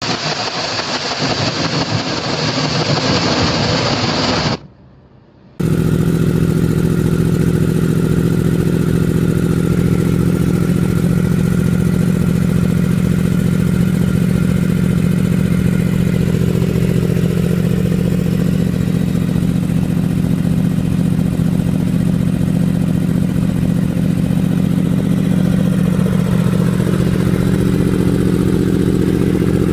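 Motorcycle engine sound. A rough, hissy stretch cuts off about four and a half seconds in. After a second's gap, an engine drones steadily at a nearly constant pitch for the rest, as if cruising at speed.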